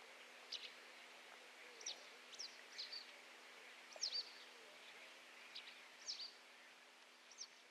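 Faint, short, high chirps of birds, each sweeping down in pitch, about once a second at irregular intervals, over a low steady hum.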